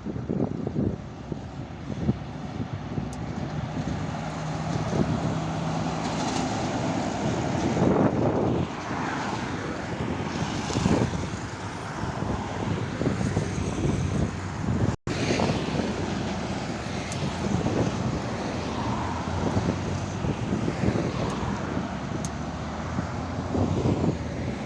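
Heavy trucks and other traffic passing on a highway: engine and tyre noise swelling and fading as vehicles go by, loudest about eight and eleven seconds in. The sound cuts out for an instant about halfway through.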